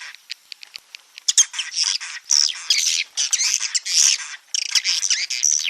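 Swiftlet roosting-call lure track: a quick run of sharp clicks for about the first second, then a dense chorus of high chirping and twittering swiftlet calls. This is the 'inap' (roost) sound played to make young swiftlets settle in a swiftlet house.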